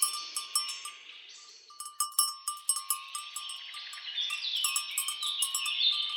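Birds singing in runs of falling notes, over repeated clinks and clanks of cattle bells. Both thin out briefly about a second in, then pick up again.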